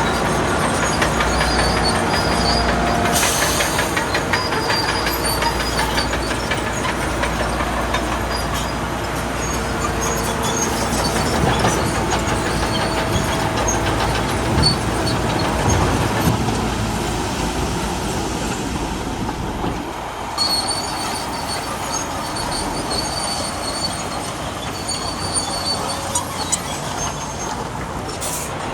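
Crawler bulldozer working: its diesel engine runs steadily under its steel tracks, which clatter with many quick clicks and squeal in short high-pitched stretches.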